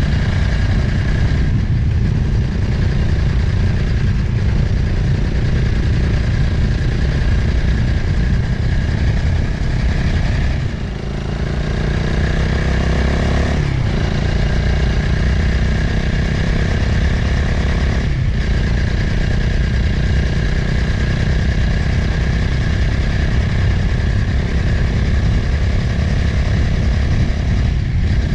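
Motorcycle engine running under way with wind rushing over the microphone. It drops out briefly at several gear changes. About eleven seconds in, the engine eases off, then it rises in pitch as it pulls back up.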